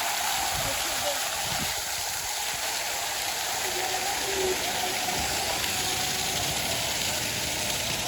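A steady rushing noise, like running water, with faint voices underneath.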